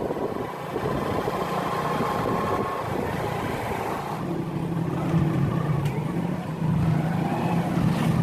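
Motorcycle engine running while riding, with road and wind noise; its steady hum grows stronger about four seconds in.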